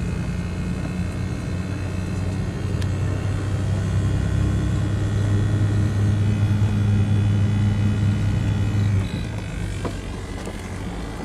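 Tour vehicle's engine running while driving, heard from inside the cabin: a steady low hum that grows louder over several seconds, then drops back suddenly about nine seconds in.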